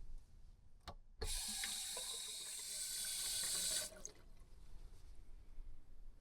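Water running for about two and a half seconds, starting and stopping suddenly, with a faint click just before it.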